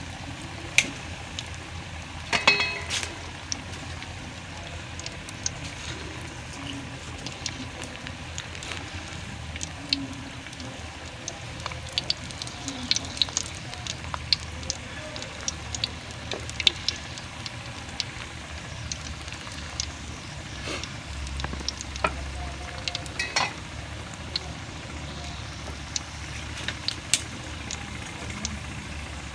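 Chicken balls frying in hot ghee on a low flame, a steady sizzle with frequent small crackles and pops. A few louder clinks of a utensil come through, the loudest about two and a half seconds in.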